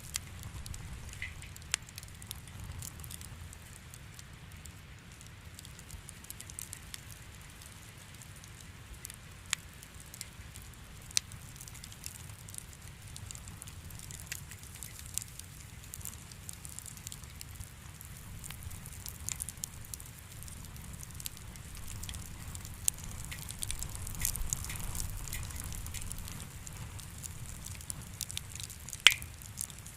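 Wood fire crackling in a fireplace: a soft steady hiss with irregular sharp pops and snaps, a few louder ones near the end.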